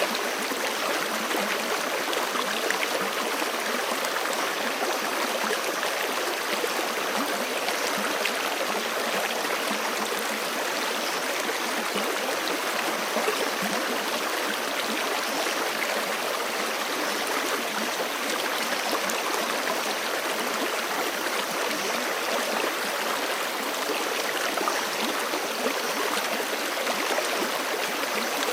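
Forest creek flowing steadily over rocks, a continuous rushing and gurgling of water.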